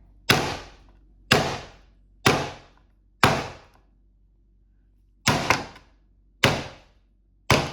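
A hammer striking pieces of burnt, hardened microwave pizza in seven sharp blows: four about a second apart, a pause, then three more. The pizza is so durable it holds up under the strikes.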